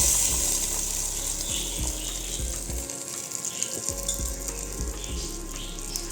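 Food sizzling in hot oil in a pan, a dense hiss that is loudest at the start and slowly eases off, with soft background music underneath.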